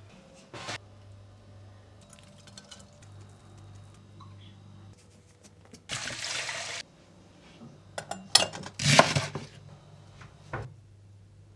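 Kitchen work: a brief rush of running or pouring water, then a cluster of clinks and knocks of dishes and cutlery, over a low steady hum.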